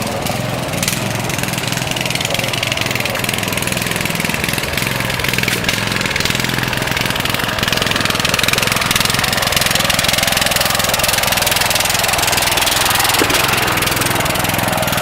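Riding lawn tractor's small engine running steadily.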